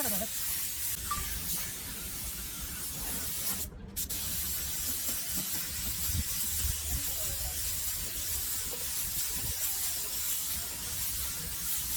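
Steady hissing spray, broken off briefly about four seconds in.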